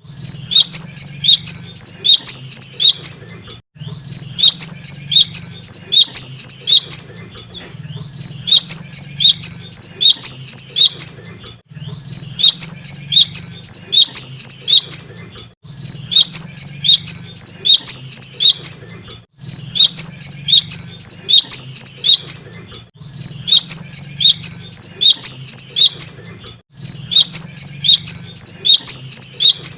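Cinereous tit (gelatik batu) singing: phrases of rapid high chirps about three seconds long, repeating with short gaps roughly every four seconds, over a faint steady low hum.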